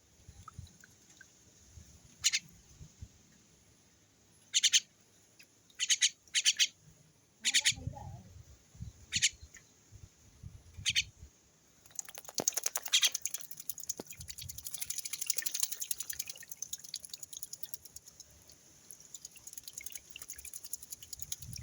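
A small bird giving short, sharp chirps, about seven of them, then from about halfway through a long run of rapid fluttering, splashing ticks as it flaps its wings in water while bathing.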